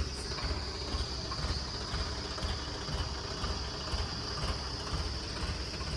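Tata truck's diesel engine running steadily, a low uneven throb with a constant high hiss above it.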